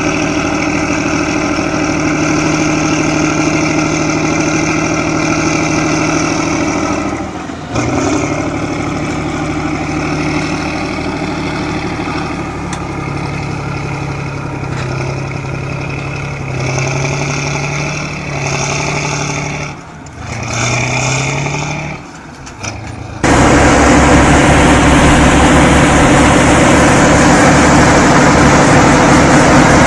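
Heavy vehicle engines running and revving, their pitch shifting up and down, with one brief rising rev a little after 20 seconds in. About 23 seconds in the sound switches abruptly to a louder, rougher engine noise.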